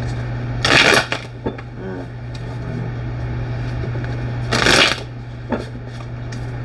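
Tarot cards being shuffled: two short bursts of shuffling, about a second in and again near five seconds, with lighter card clicks between, over a steady low hum.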